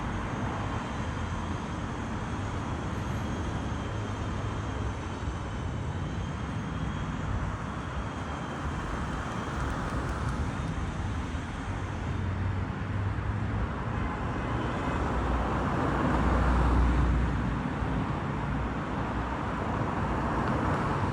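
Steady outdoor background rumble of distant traffic, swelling louder for a couple of seconds about three-quarters of the way through.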